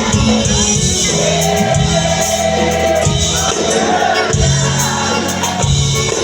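A live band playing a sertanejo song with a steady beat, with singing over the music.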